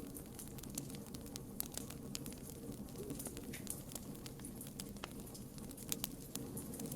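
Campfire burning: wood crackling with many small, irregular snaps and pops over a low, steady rush of flame.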